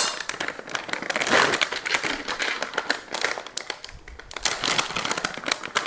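Crinkling of the plastic or foil packaging of mini Reese's peanut butter cups as it is handled and opened, a dense irregular crackle.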